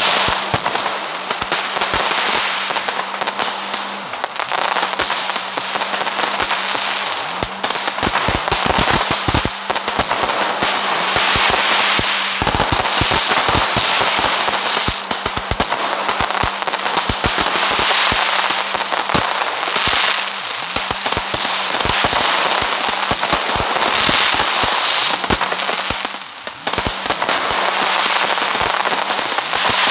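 Firecrackers going off in a dense, continuous run of rapid cracks and pops over a steady fizzing hiss, thinning briefly just after the 26-second mark, with a faint steady hum underneath.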